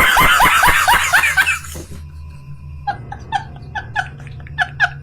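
A man laughing loudly in quick repeated "ha ha ha" bursts, dying away about two seconds in, followed by a quieter run of short repeated laugh notes near the end over a low steady hum.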